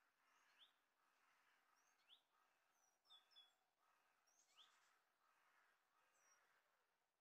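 Near silence: faint outdoor background hush with a few quiet bird chirps, short upward-sweeping calls and brief high notes every second or two.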